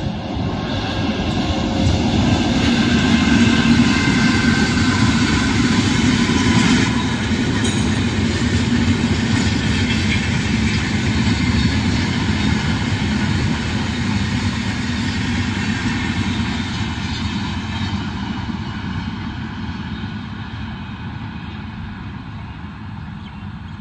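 A train running past, its rumble and wheel noise building to a peak about four seconds in, then slowly dying away.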